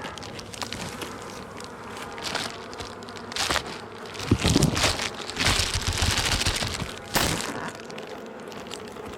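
Honey bees buzzing around an open hive, with a run of knocks, clicks and rustling from the hive parts being handled in the middle.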